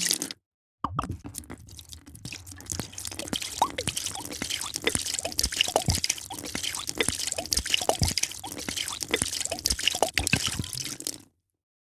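A drink being poured, with a dense patter of drips and small splashes. The sound cuts out briefly just after the start and again near the end.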